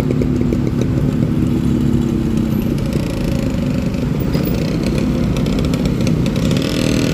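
Honda Click 125i scooter engine running under way in traffic, with road and wind rumble. A deeper steady engine hum from nearby traffic fades out in the first few seconds, and there is a light rattle near the end.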